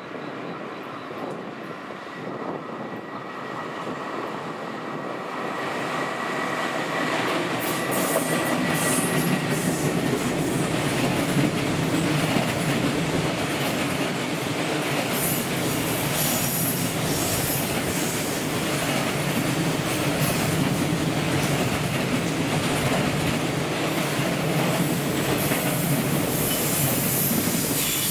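Freight train hauled by a JR Freight EF210 electric locomotive, growing louder over the first several seconds as it approaches. The container wagons then run steadily past, their wheels clattering on the rails.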